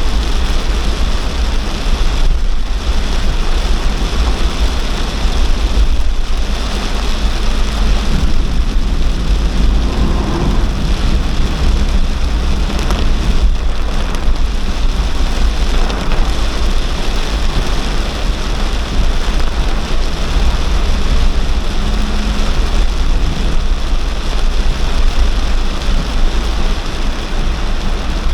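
Heavy cloudburst rain pouring down in a steady, loud hiss, with a constant deep rumble underneath.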